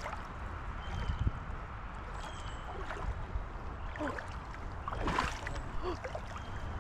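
Creek water running and gurgling around a wader's legs, with brief sloshes about four and five seconds in.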